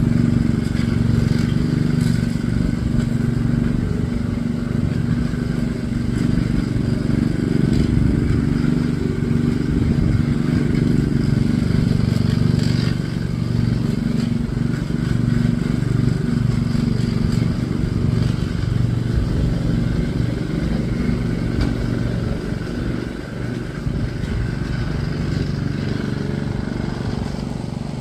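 An engine running steadily at an even, low pitch throughout.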